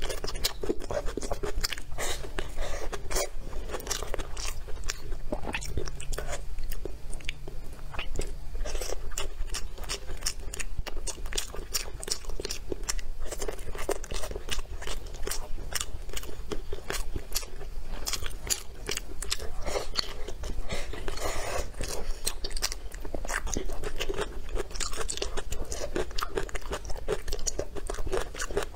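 A person chewing crunchy stir-fried vegetables: a steady run of crisp crunches and small mouth clicks.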